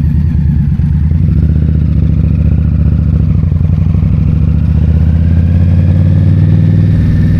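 2022 Indian Scout Bobber's V-twin engine running steadily as the motorcycle is ridden, its pitch creeping slightly higher over the last few seconds.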